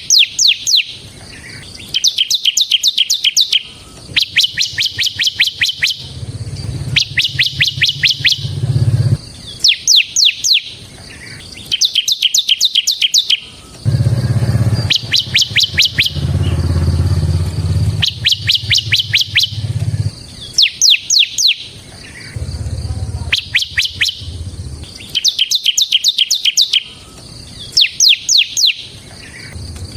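Bar-winged prinia (ciblek) singing a rapid, rattling trilled phrase over and over, each phrase about a second long and coming roughly every two seconds. A low rumble rises and falls underneath in the middle stretch.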